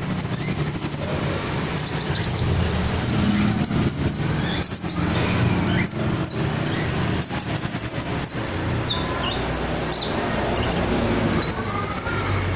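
Red-breasted sunbird singing: a run of thin, high chirps and quick down-slurred notes in short scattered phrases, over a steady low background rumble.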